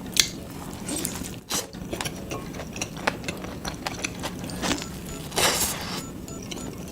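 Close-miked mukbang eating sounds: irregular crisp bites, chewing and mouth clicks, with one louder, longer crunch about five and a half seconds in.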